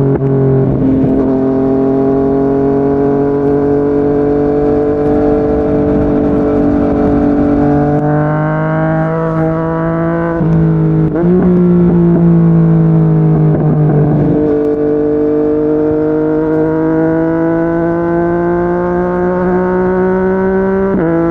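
Yamaha MT-09 inline-triple engine through a Yoshimura R55 slip-on exhaust, running hard at speed. Its pitch climbs slowly and steps abruptly at gear changes about a second in and again around 8, 11 and 14 seconds, with wind rush underneath.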